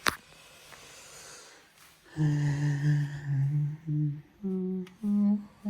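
A man humming a short tune of steady low notes, stepping up in pitch near the end, after a sharp click at the start.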